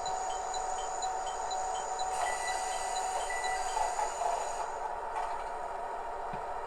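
DCC sound decoder in a KATO HO-scale Kiha 110 diesel railcar model playing the railcar's running sound through its small onboard speaker. A steady ticking of about four ticks a second stops about halfway through, and a short high beep sounds two or three times in the middle.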